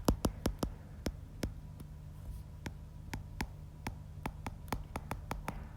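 A quick, irregular run of light clicks or taps, about three to five a second, over a steady low electrical hum.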